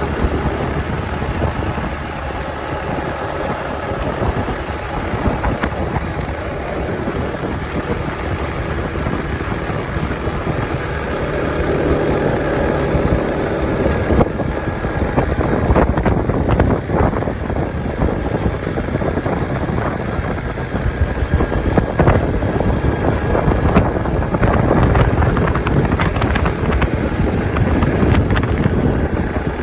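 Motorcycle engine running while riding, with wind noise on the microphone. From about halfway it gets a little louder, with many short sharp knocks.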